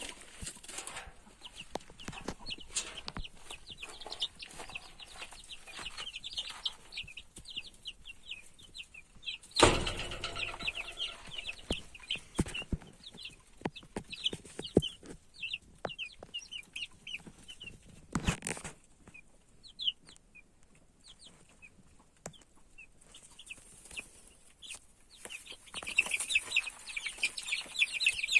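Chickens clucking and chirping in quick, high runs of short calls, with scattered knocks and clicks and a brief louder noisy burst about ten seconds in and again near eighteen seconds.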